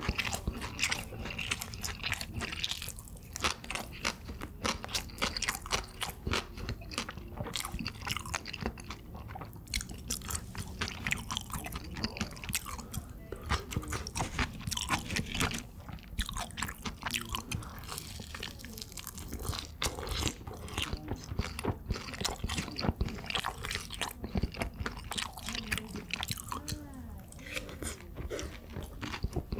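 A person chewing jajangmyeon noodles and crispy chapssal tangsuyuk (glutinous-rice-battered fried pork) close to the microphone. The crunching and biting run on without a break, with many irregular clicks and crackles.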